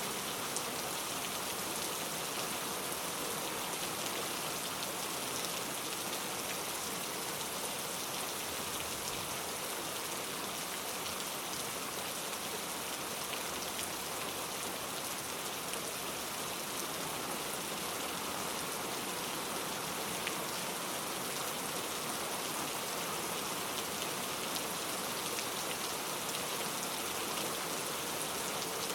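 Steady rain falling, a continuous hiss with scattered individual drops pattering on a surface; no thunder.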